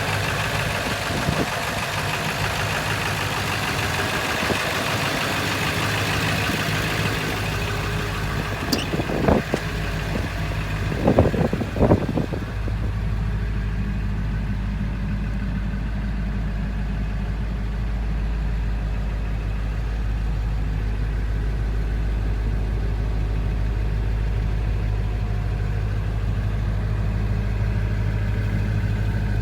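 A 7.3-litre V8 turbo diesel engine in a 2000 Ford Excursion, idling steadily. A few sharp knocks come about nine to twelve seconds in. After that the sound turns deeper and steadier.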